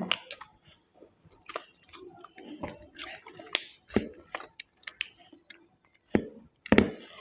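Close-miked food sounds: scattered sharp clicks and crackles with soft squishes, the sharpest about four seconds in and twice near the end.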